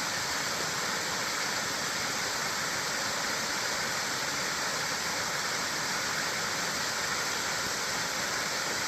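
Small woodland waterfall on a creek, its water rushing steadily.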